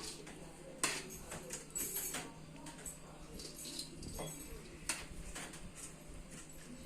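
Metal kitchen utensils clinking now and then against a cooking pot and plates as rice is spooned in for layering a biryani. The clinks are a few sharp, irregular ones over a faint steady hum.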